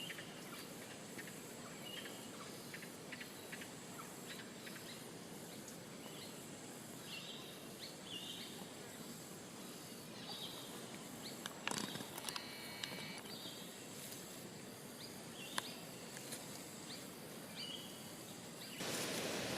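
Outdoor ambience: a steady background hiss with scattered short high chirps, a few sharp clicks past the middle, and a louder rush of noise near the end.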